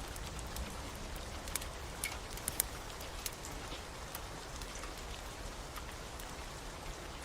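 Steady rain with scattered sharp crackles and pops from a wood fire; several pops come close together about two to three seconds in.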